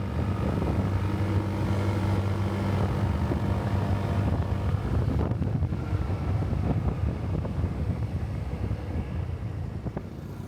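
Motorbike engine running at full power with a steady drone, wind buffeting the microphone.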